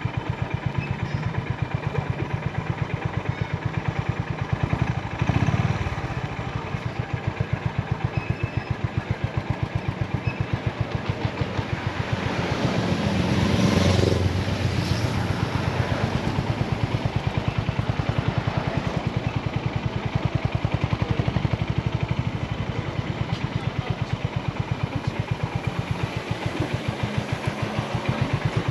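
Honda GB350's air-cooled single-cylinder engine running at low revs, its exhaust giving a steady train of even pulses. A louder swell of noise rises and fades about halfway through.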